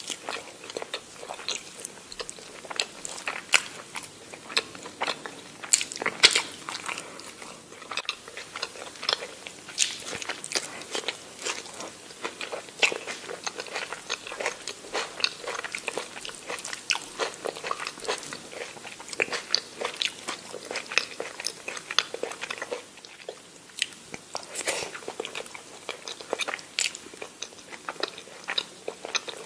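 A person chewing and biting food close to the microphone, with a steady run of short, crisp crunches and clicks.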